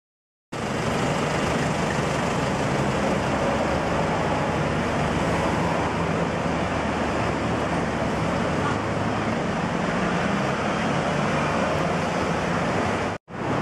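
Ferrari 599's decatted V12 idling steadily, with no revs, under a broad steady hiss of street noise and wind. The sound starts after a short silence and drops out briefly near the end.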